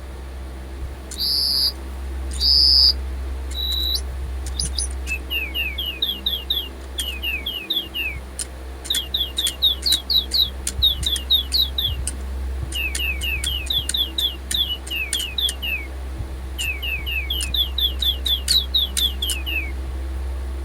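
DigiBirds robot toy birds playing electronic birdsong: two short steady beeps near the start, then repeated phrases of quick, falling high chirps, about five a second. The owner takes the weird beeping for a sign that the toys' batteries are low.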